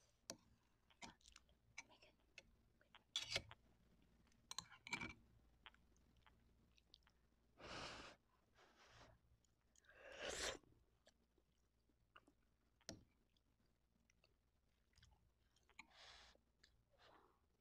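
Faint, close-miked chewing of instant noodles and fried egg, with scattered small clicks and a few short noisy mouth sounds.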